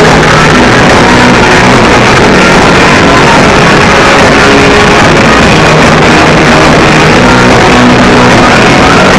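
Live rock band playing loud, with guitar prominent; the sound sits close to full level throughout.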